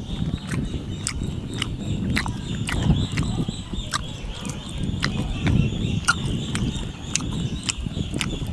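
A person chewing crunchy food close to the microphone: wet mouth sounds with many small sharp crackles, over a steady high-pitched drone of insects.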